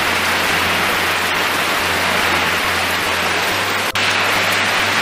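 Heavy rain pouring down as a loud, dense, steady hiss, with a brief break about four seconds in.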